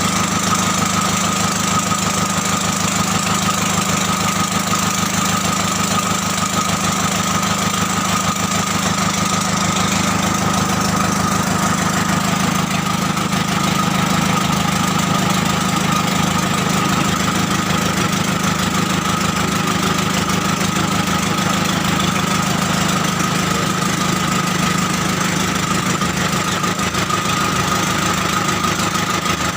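Komatsu diesel engine running steadily at idle, with a thin steady whine over the engine noise.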